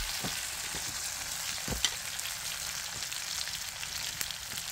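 Food frying in oil in a black wok over a wood fire: a steady sizzle, with a few faint clicks.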